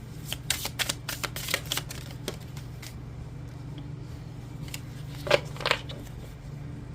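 Oracle cards being shuffled by hand: a quick run of card snaps and flicks through the first two seconds, then two louder taps a little past five seconds in. A low steady hum runs underneath.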